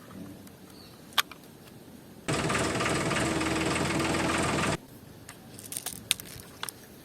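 A small electric motor is switched on, runs steadily for about two and a half seconds with a whirring buzz, then cuts off suddenly. Light clicks and taps of handling come before and after it.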